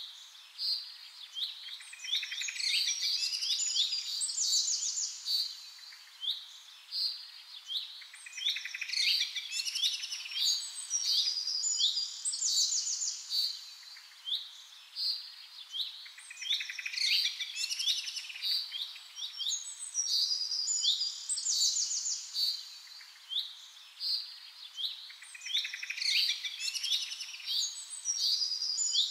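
Small birds chirping and singing, in quick runs of short, high chirps that come back every few seconds.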